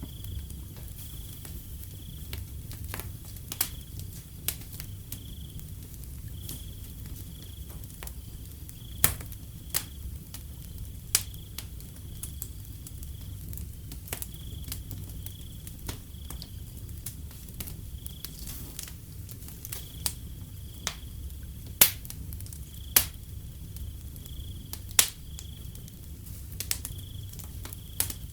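Wood fire crackling, with sharp irregular pops over a low steady rumble; the loudest pops come a little past the middle and near the end. Crickets chirp throughout in repeated short pulses at one high pitch.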